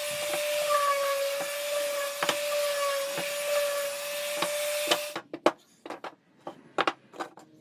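Electric chop saw running with a steady whine, cutting wood, for about five seconds, then cutting off. A few sharp knocks of wood being handled follow.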